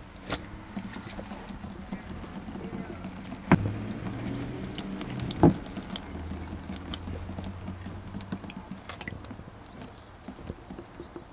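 Gear oil dribbling and pattering from the edge of a cracked-open rear differential cover into a drain pan. Two sharp knocks stand out, about two seconds apart.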